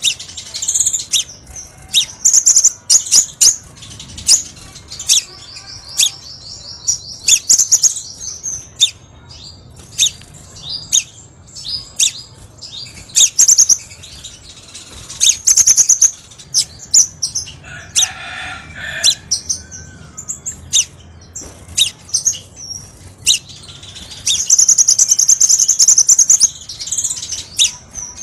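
Crimson sunbird song: rapid, high-pitched chirps and sharp ticking notes, with a fast trill a few seconds in and a longer one near the end.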